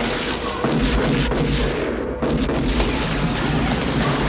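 Movie car-chase sound mix: the 1970 Oldsmobile 442's 455 V8 running hard at speed with heavy booming rumble, under dramatic music. The level jumps up suddenly about half a second in and again about two seconds in.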